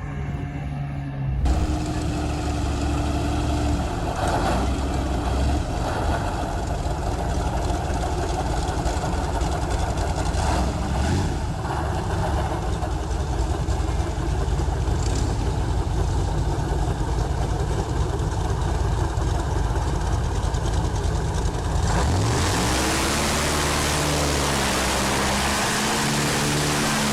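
Boat engines running steadily under a constant rushing hiss. About 22 s in the sound changes to a louder hiss, with the engine pitch sliding up and down.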